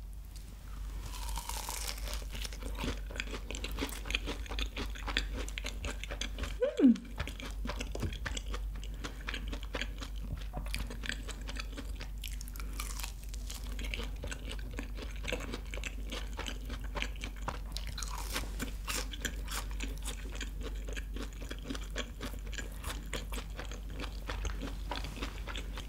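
Close-miked chewing of a fried cheese ball, with crunchy bites and mouth sounds all the way through. About seven seconds in comes a brief falling hum-like vocal sound.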